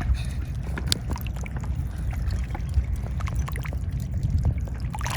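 Seawater lapping and trickling among shoreline rocks, with scattered small splashes and clicks over a steady low rumble.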